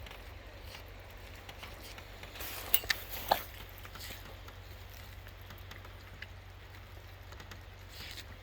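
Puppies tugging and chewing at a deer carcass: scattered small clicks and scuffles, with a quick cluster of sharp, loud snaps about three seconds in.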